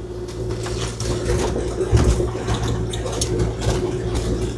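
Kubota KX040-4 excavator's diesel engine running steadily, with an unexplained rattle of quick clicks over it and one heavier knock about two seconds in.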